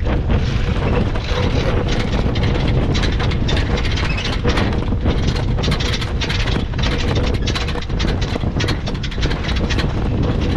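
Wind buffeting the microphone aboard a sailing yacht under sail: a steady, loud rumble with irregular gusty rushes.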